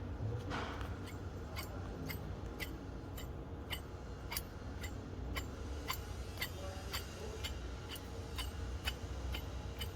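Hyundai HB20 engine running, with an even ticking of about three ticks a second over a steady low hum: the noise of a worn water pump bearing, which the mechanic says has given way and is catching.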